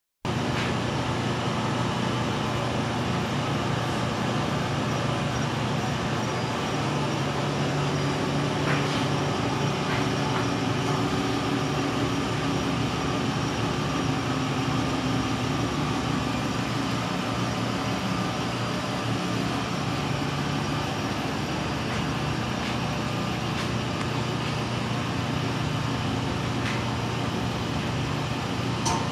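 Car engine idling steadily with a low hum, with a few faint clicks.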